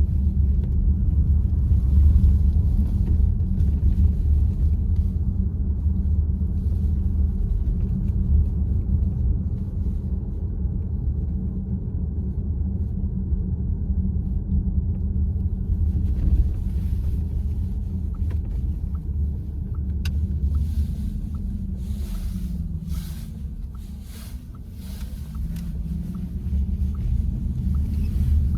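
Steady low road and tyre rumble inside the cabin of a VW ID.4 electric SUV while driving, briefly easing about three quarters of the way through. A run of faint, evenly spaced ticks and a few light clicks come in the last third.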